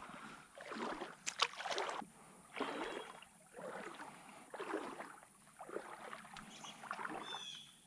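Water sloshing in a shallow creek, in a series of swishes about once a second, as when someone wades. A bird chirps briefly near the end.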